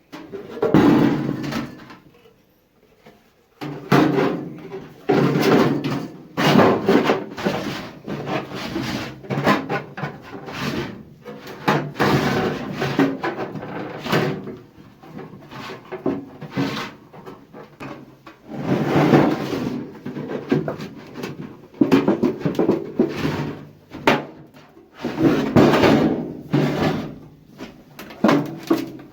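Thin sheet metal of an 18-litre square can being handled and worked by hand: irregular bursts of rattling and scraping, each a second or two long, with short pauses between them.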